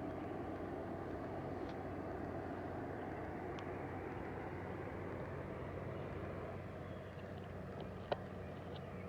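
Garden ambience after rain: a steady low outdoor rumble, with a few faint short high ticks and one sharp click about eight seconds in.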